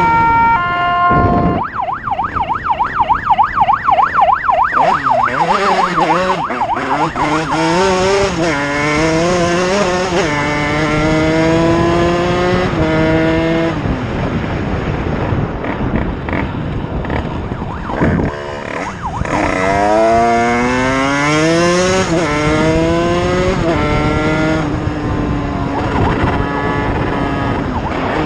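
A siren warbling fast and briefly, then a motorcycle engine accelerating hard through the gears: its pitch climbs and drops back at each upshift, in two separate runs.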